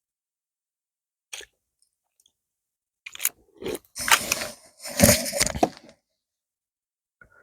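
Someone chewing crunchy food, in a few loud bouts of crunching between about three and six seconds in, after a single short click.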